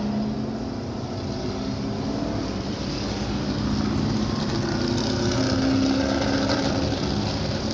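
Historic race car engine running on the circuit, growing louder to a peak about six seconds in, then easing off.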